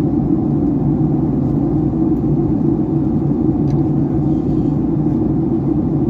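Steady in-flight cabin drone of a Boeing 757-300: engine and airflow noise heard inside the passenger cabin as an even low rumble with a constant hum.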